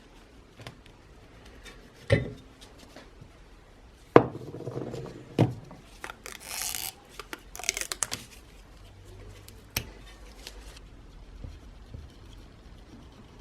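Metal parts and hand tools being handled on a workbench: a few sharp knocks and clinks, a short scraping noise about six seconds in, then lighter clicks.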